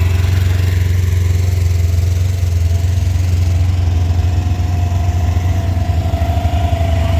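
Side-by-side UTV engines running at low speed as they pass, a steady low drone with a faint whine that rises slightly in the second half.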